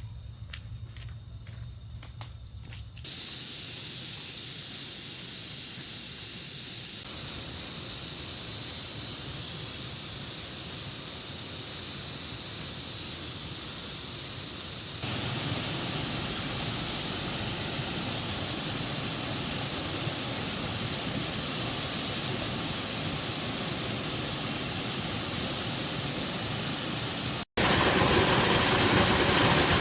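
Steady rushing-water noise that steps louder at a couple of cuts, drops out for an instant near the end and comes back louder still.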